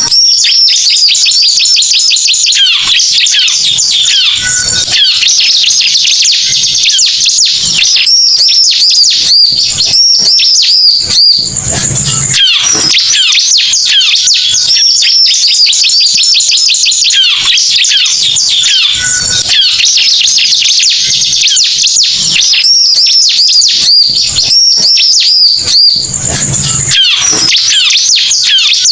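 Ciblek (bar-winged prinia) song played as a loud luring call: dense, rapid, high-pitched chirps and trills that run on without pause. A short, lower, buzzier burst comes about 12 seconds in and again near the end, as the sequence repeats.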